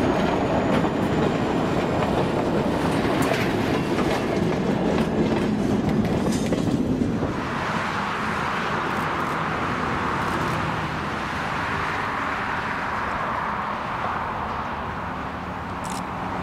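Open excursion flatcars of a passenger train rolling past close by, their steel wheels clattering over the rail joints. About seven seconds in this cuts to a quieter, steady distant noise as the train approaches from far off.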